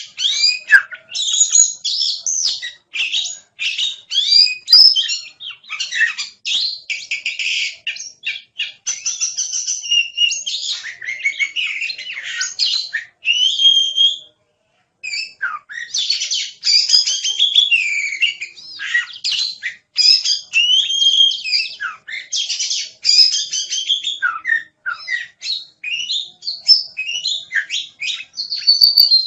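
Oriental magpie-robin (kacer) singing in full voice: a fast, varied, continuous run of whistles, slurred notes and chattering trills, broken by a short pause about halfway through.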